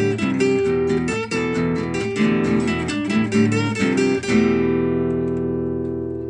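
Acoustic guitar strummed and picked in quick notes, ending on a final chord about four seconds in that is left to ring and slowly fade.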